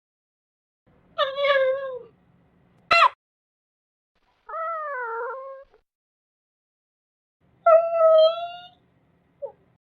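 A cat meowing: five separate meows with gaps between them, most under a second long and bending in pitch, the last one very short.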